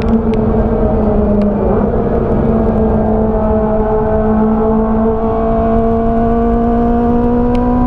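Engine running at steady high revs, its hum creeping slowly higher in pitch, over a rough rumble.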